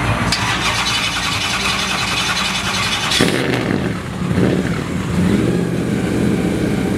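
A drag-prepped Dodge Magnum's engine running loudly at a standstill, with short throttle blips in the second half.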